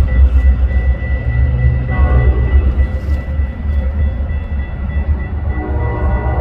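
A train running by, a heavy low rumble that pulses unevenly, with a thin steady high tone over it.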